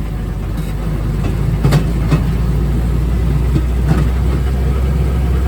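Railroad speeder (track motorcar) running along the rails with a steady low engine drone and a few sharp clicks scattered through it.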